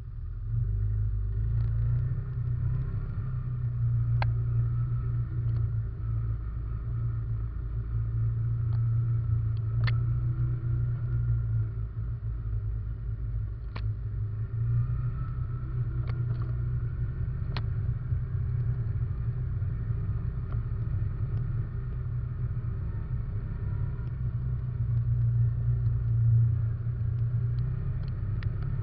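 Russian Mechanics RM 500 ATV engine running steadily under way, heard from a camera mounted on the machine, with a few sharp clicks and knocks from the ride. The engine gets louder right at the start.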